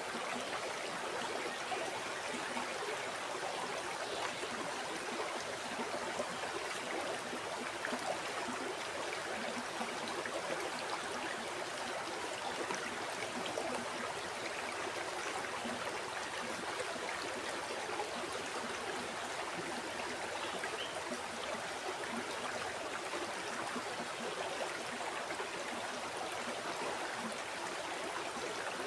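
A flowing river or stream babbling over stones, a steady rush of water with small gurgles and splashes throughout.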